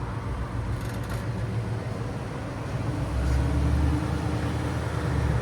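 2006 Ford Mustang GT's 4.6-litre V8 idling with a steady low exhaust rumble, the note thickening slightly about halfway through.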